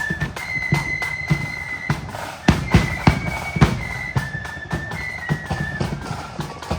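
Marching flute band playing: flutes hold a melody of high, sustained notes over a steady beat of snare and bass drums, with a few hard drum strikes about midway.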